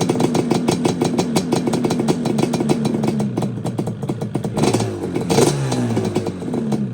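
Yamaha Banshee's twin-cylinder two-stroke engine running shortly after a cold start, choke pushed in, warming up. It fires in a rapid, even crackle, its pitch sagging in the second half, with a short rev about five seconds in.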